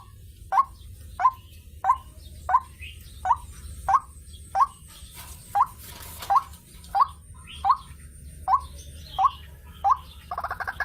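White-breasted waterhen (ruak-ruak) calling: a single short note repeated evenly, about one and a half a second. Just before the end a fast run of notes begins.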